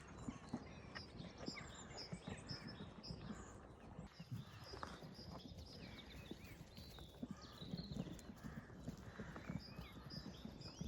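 Sheep milling about with irregular hoof knocks and shuffling. Small birds chirp in the background.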